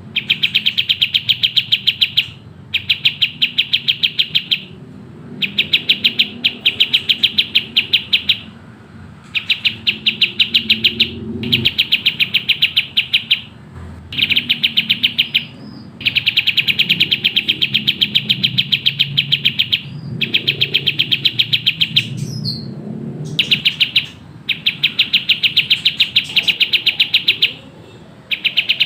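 Kapas tembak songbird chirping in fast, tightly packed runs of rapid-fire high notes, each run lasting about two seconds, with brief pauses between runs.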